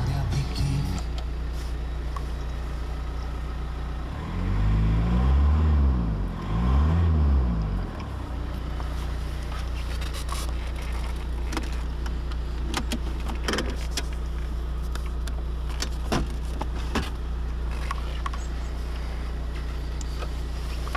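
Škoda Superb's 1.9 TDI PD four-cylinder turbodiesel idling steadily, revved twice in quick succession about four seconds in and falling back to idle each time. Scattered clicks follow later.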